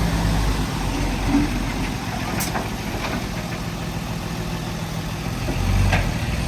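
Heavy diesel engine of earthmoving equipment running steadily, swelling louder near the end.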